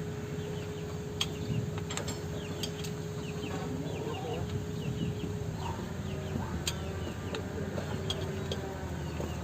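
Chickens clucking over a steady low rumble, most likely the Isuzu CXZ's diesel engine idling during injection-pump timing work.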